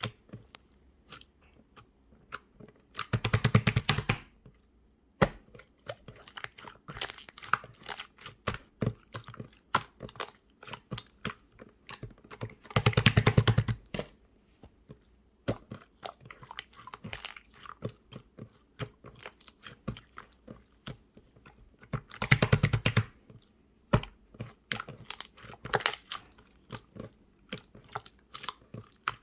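Hands working a homemade clear slime, with sticky clicks and small pops throughout. Three times, about ten seconds apart, there is a louder burst of rapid crackling lasting about a second.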